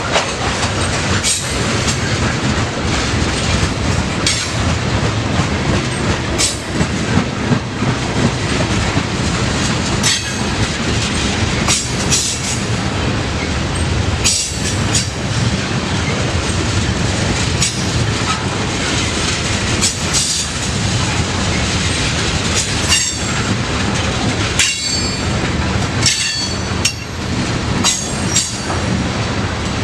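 Freight train rolling past, its cars' steel wheels clacking over rail joints with a sharp knock every second or two under a steady rumble, and light wheel squeal now and then.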